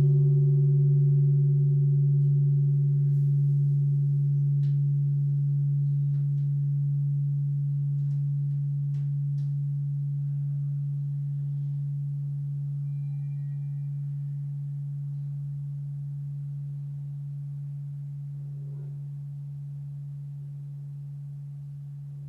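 A large Tibetan singing bowl, struck once just before, ringing with a deep steady hum and a few higher overtones, fading slowly; the higher overtone dies away first.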